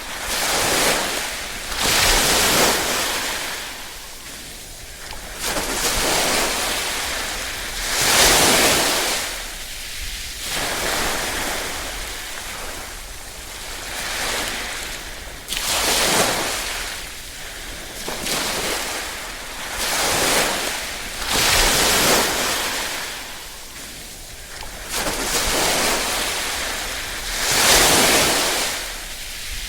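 Small waves washing onto a shore, each one swelling and falling away, one about every six seconds.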